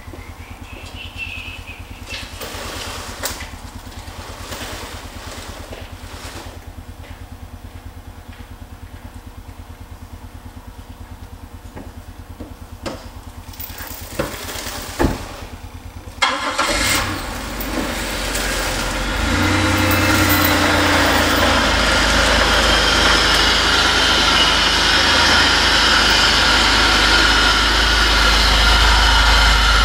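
A few thumps, then a car's engine starts about halfway through and runs steadily, growing louder as the car is driven forward.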